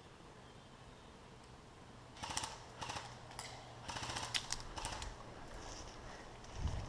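Airsoft gun firing several short rapid bursts, starting about two seconds in and stopping about five seconds in. A low thump comes near the end.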